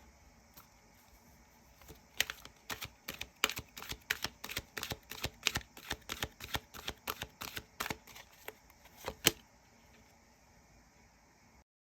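A run of quick, sharp clicks and taps, about three a second, lasting around seven seconds over a faint hiss; the hiss cuts off abruptly near the end.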